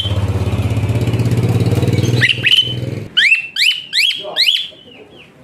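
A motor engine runs with a steady pulsing drone that stops about three seconds in. Over its end, a pied starling (jalak suren) gives a quick run of sharp rising whistles, about five in two seconds.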